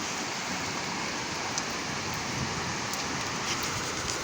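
Heavy rain falling steadily: an even hiss, with a few faint drop ticks.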